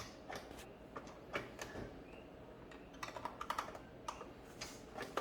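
Faint, irregular light clicks and taps of small hard plastic toy pieces being handled, with a quicker run of clicks about three seconds in.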